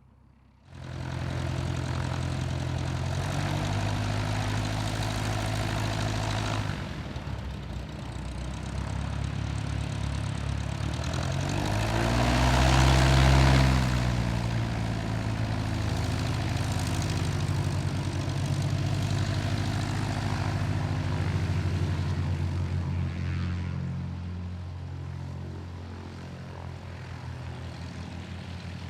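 Light propeller aircraft engine running, starting abruptly about a second in, growing louder as the plane passes close by about halfway through, then fading away.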